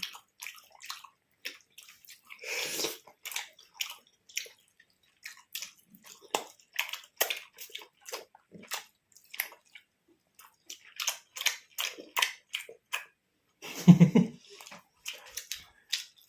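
Close-up eating sounds: wet chewing and lip smacking, a steady run of small, sharp mouth clicks. A louder, low, muffled sound comes about 14 seconds in.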